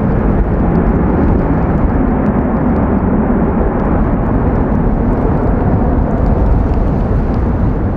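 Jet noise from an Airbus A320's CFM56 engines, heard through heavy wind buffeting on the microphone as a steady deep rumble.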